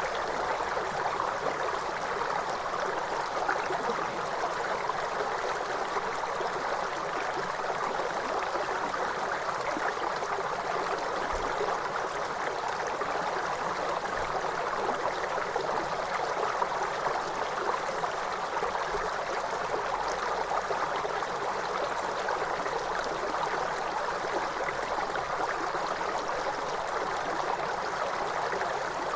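Waterfall: rushing water falling and splashing in an even, unbroken wash.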